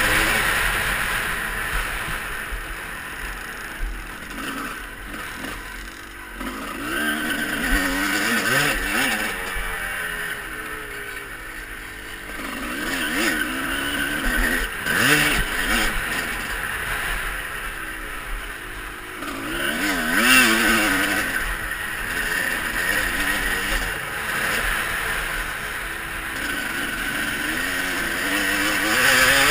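Motocross bikes riding around a dirt track, their engines revving up and down through the gears as they come and go, several passes over the half minute.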